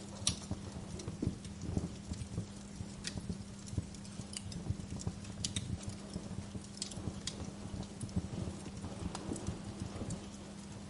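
Wood fire crackling, with irregular sharp pops and snaps over a low rumble of the flames and a steady low hum underneath.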